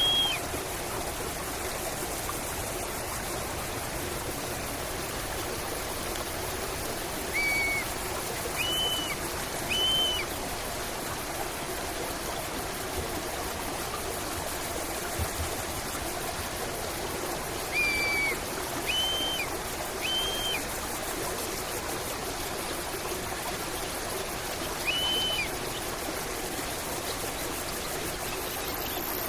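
A stream flowing steadily, with a bird calling over it: short, clear single notes every few seconds, some in quick pairs.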